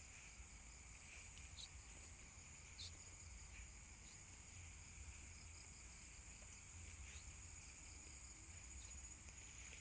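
Faint, steady chorus of insects such as crickets, a continuous high trill with a lower second band, with a few faint ticks.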